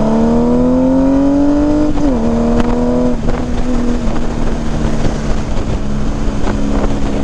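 Honda Gold Wing's flat-six engine breathing through Shark Road slip-on mufflers under full-throttle acceleration. The exhaust note climbs steadily, drops sharply at an upshift about two seconds in, climbs briefly again, then settles into a steady tone at cruising speed under wind noise.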